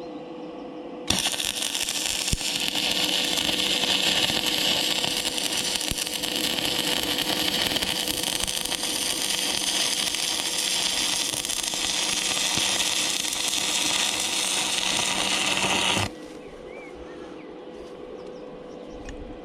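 Electric arc welding a weld run along a flat-bar infill on a mini digger's thumb: a steady crackling hiss that starts suddenly about a second in and stops abruptly about fifteen seconds later.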